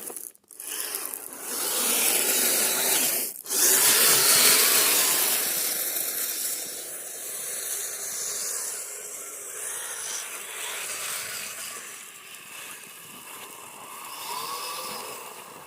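Electric motors and rubber tracks of a tracked RC snowcat churning through snow, a rough hissing grind that is loudest in the first few seconds and then fades as the machine moves off.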